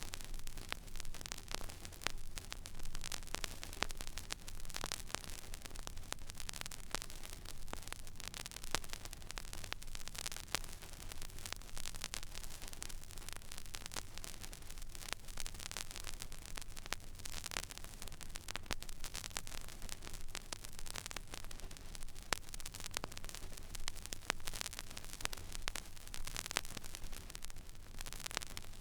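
Stylus tracking an empty vinyl record groove: steady surface hiss scattered with many small crackles and pops, over a low steady hum.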